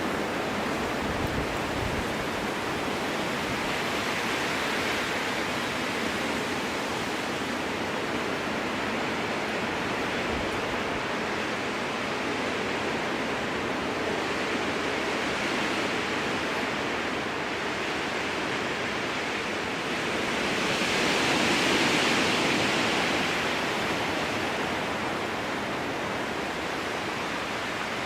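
Strong wind rushing through spruce forest, a steady hiss that swells into a louder gust about twenty seconds in and then eases.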